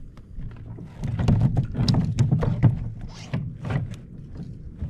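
Irregular knocks and clatter of gear and a fish being handled aboard a fishing kayak, starting about a second in.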